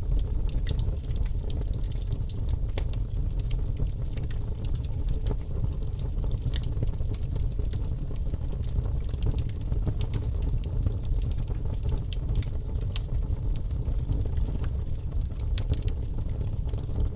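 Wood fire crackling in a fireplace, with scattered sharp pops, over a steady low rumble of snowstorm wind.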